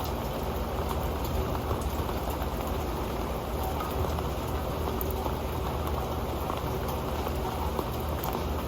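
Rain falling onto an old metal pan: a steady, dense run of small drop ticks on the pan over an even rain hiss.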